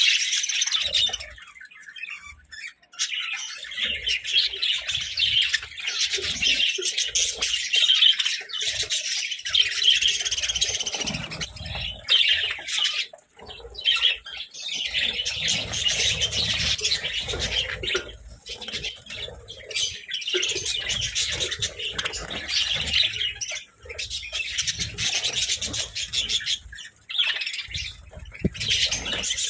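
Budgerigars chirping and chattering in a busy, continuous stream, broken only by a few brief lulls.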